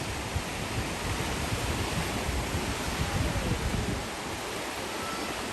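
Wind blowing across the microphone: a steady rushing hiss with irregular low buffeting.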